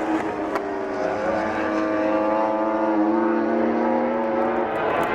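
MotoGP racing motorcycle engine at high revs, its pitch rising steadily as it accelerates, then breaking off about four and a half seconds in.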